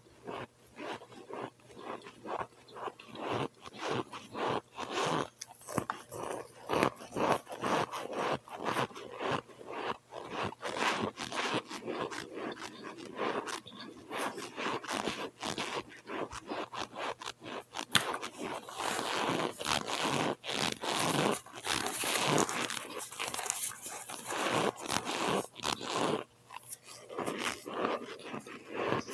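Close-up mouth sounds of someone biting and chewing cold boiled cornstarch chunks: dense, irregular crunching and crumbling that turns busier and more continuous in the second half.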